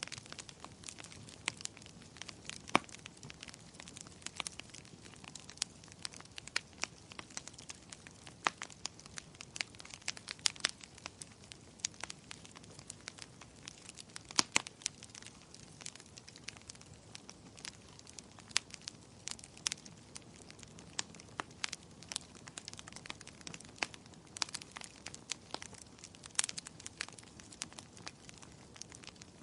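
Wood fire burning in a fireplace, crackling continuously with frequent sharp pops and snaps over a faint low rush of flame.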